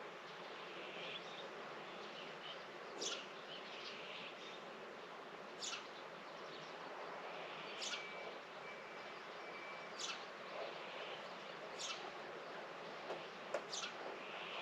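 A bird repeating a short, high call that sweeps quickly downward, about every two seconds, over a steady outdoor background hum.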